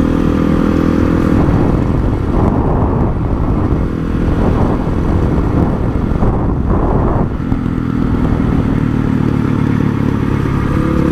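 Honda CRF450's single-cylinder four-stroke engine running while ridden. It holds a steady note at first, turns rougher and noisier through the middle few seconds, then settles back to a steady note.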